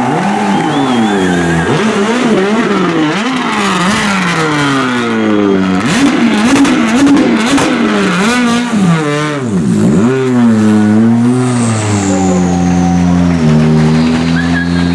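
World Rally Car's 1.6-litre turbocharged four-cylinder engine revving hard, its pitch climbing and dropping again and again through quick gear changes, then settling into steadier, lower notes about twelve seconds in.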